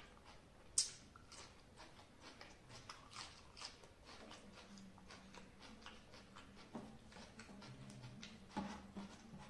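Faint mouth sounds of a man chewing a mouthful of rice, with irregular small smacks and clicks as his fingers mix food on a ceramic plate. A sharp click about a second in, and a low steady hum comes in about halfway.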